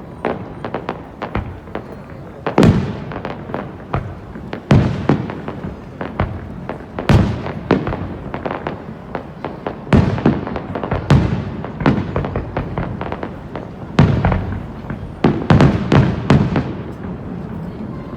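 Fireworks going off: a run of loud bangs every second or two, each fading out, with lighter crackling pops in between.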